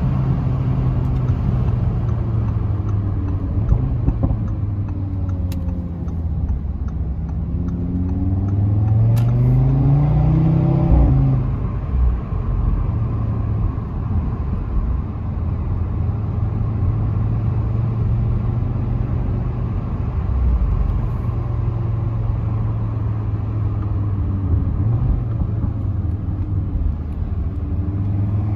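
2019 Audi RS3's turbocharged 2.5-litre inline-five engine and exhaust heard from inside the cabin while driving. The revs fall, climb steeply about eight to eleven seconds in, hold steady through a long cruise, and rise again near the end, with a few sharp exhaust pops.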